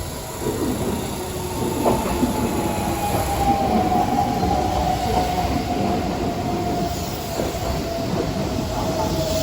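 Electric commuter train pulling into a station platform and slowing: rumbling wheels on rail under a single high tone that falls slowly in pitch as the train decelerates.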